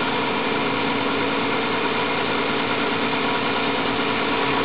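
Nissan Skyline's 2.5-litre twin-cam 24-valve straight-six idling steadily, heard up close with the hood open. It is running a little fast, about 1100 rpm, because it is still warming up.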